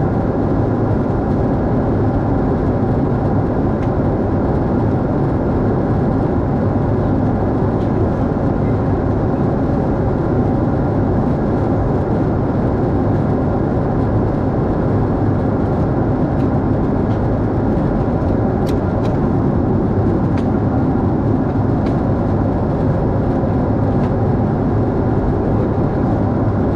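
Steady, even cabin noise of a Boeing 747-8 airliner in flight, the drone of its jet engines and the rush of air past the fuselage, with a few faint ticks in the second half.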